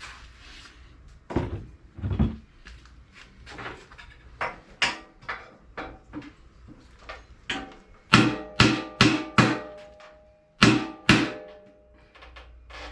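Hammer blows on a heated, stuck metal part of a lawn mower engine, each strike sharp and ringing. The blows are lighter and spaced out at first, then come as a quick run of heavy strikes, about two or three a second, near the end.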